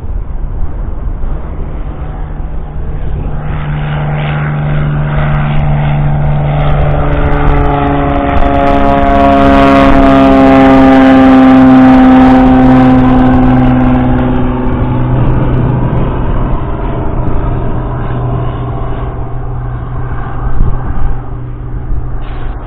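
A 1976 Ford 4100's 3.0-litre three-cylinder diesel engine running as the tractor passes close by. It grows louder to a peak about halfway, its pitch drops slightly as it goes past, and then it fades somewhat.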